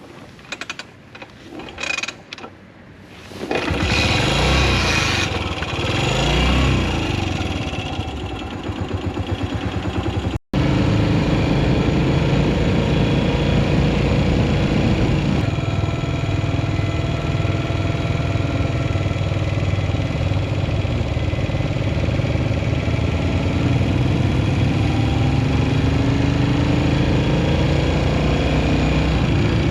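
Yamaha SR400's single-cylinder engine, quiet at first with a few clicks, starting about three and a half seconds in and blipped up and down a few times. It then runs steadily under riding, its pitch rising slowly near the end as it accelerates.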